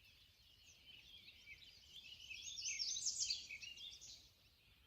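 Songbirds chirping and twittering together, a dense run of quick high notes that builds through the middle and fades near the end.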